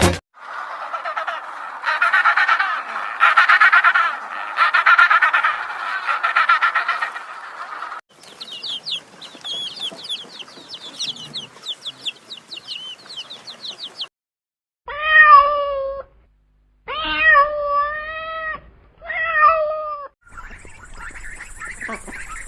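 Kitten meowing three times, each call about a second long with short gaps between them. Before the meows come other animal calls: a dense chatter, then fast high repeated twittering.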